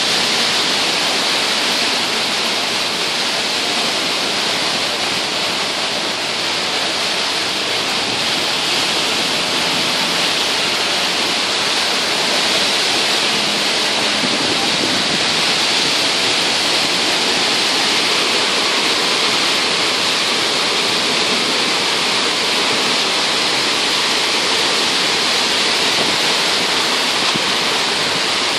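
Heavy rain pouring down in a storm, a dense steady hiss that holds at the same level throughout.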